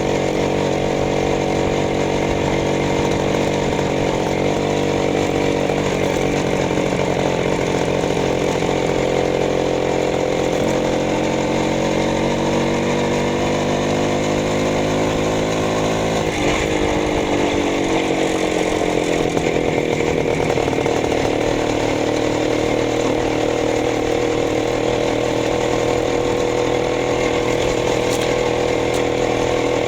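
Minsk motorcycle engine running. Its pitch climbs slowly for several seconds, drops sharply about sixteen seconds in, then eases down to a steady speed.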